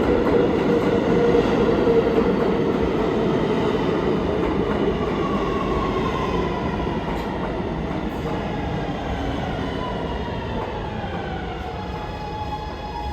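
Subway train running on the tracks, with a motor whine that slowly falls in pitch while the rumble gradually fades.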